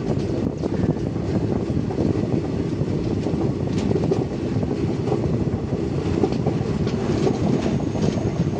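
Indian Railways express passenger coach running at speed, heard from its open doorway: a steady rumble of wheels on rail, with a few faint clicks over rail joints.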